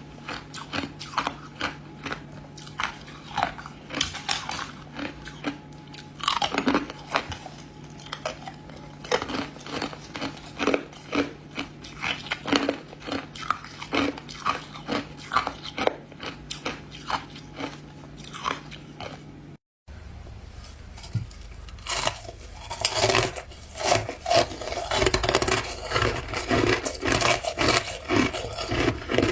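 Ice being bitten and chewed close to the microphone: a run of sharp, irregular crunches. About two-thirds of the way in the sound cuts out for a moment, and after that the crunching is denser and louder.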